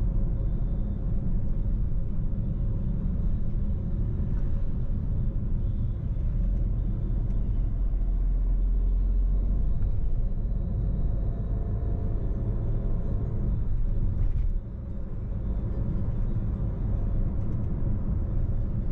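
A car on the move: a steady low rumble of engine and road noise. It dips suddenly about three-quarters of the way through.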